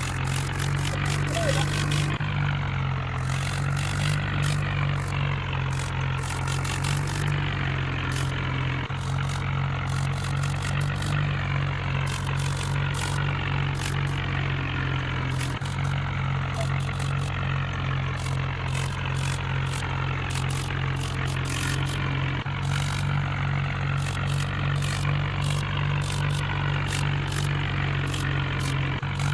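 Mahindra tractor's diesel engine running steadily at an even speed.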